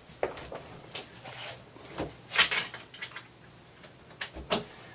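Scattered clicks and knocks of handling noise, with a short rustling burst about two and a half seconds in and a sharp knock near the end.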